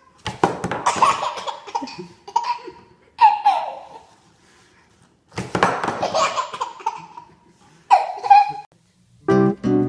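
A baby laughing in several separate bursts of giggles and belly laughs. Acoustic guitar music comes in near the end.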